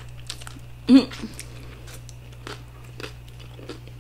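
Close-miked bites and chewing of a crunchy hard-shell taco, with scattered crisp crunches throughout. About a second in comes one short, loud vocal sound from the eater.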